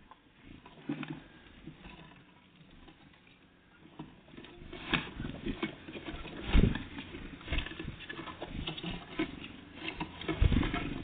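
Small birds pecking and tapping at a bird feeder: irregular clicks and knocks, sparse at first and busier from about four seconds in, with two louder thumps near the middle and near the end.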